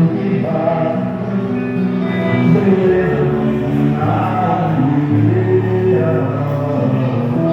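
Live music with voices singing held notes over instrumental accompaniment.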